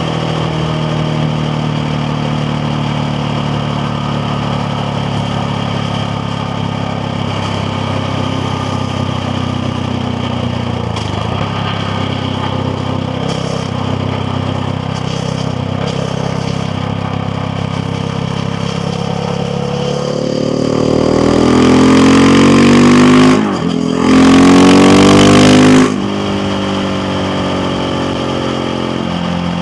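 KTM Duke 690R's single-cylinder engine running steadily at cruise. About two-thirds of the way in it revs up hard and loud under acceleration, breaks off briefly for a gear change, climbs again, then drops back to a steady cruise.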